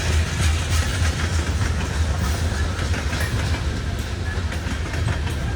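Loaded coal train cars rolling past, their wheels clicking steadily over the rail joints over a continuous rumble.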